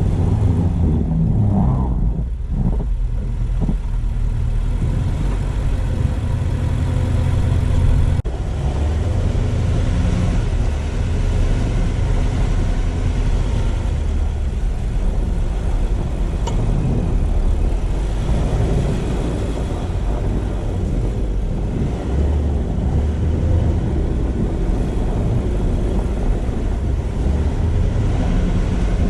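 Car driving: a steady low rumble of engine, tyre and road noise.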